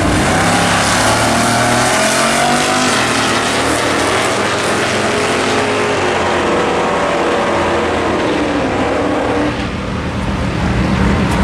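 Drag-racing cars under full throttle down the strip, the engine note rising in pitch as they accelerate.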